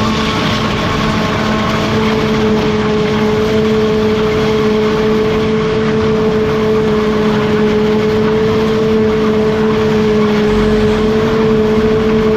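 Heavy farm machine's diesel engine running at steady high revs under load, with a constant drone and a broad mechanical rush; it cuts off abruptly at the end.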